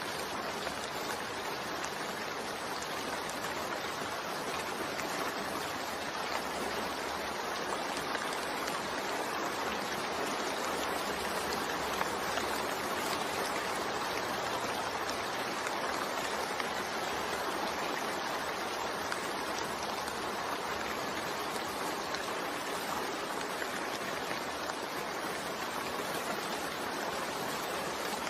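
Continuous rain mixed with white noise: a steady, even hiss with no breaks.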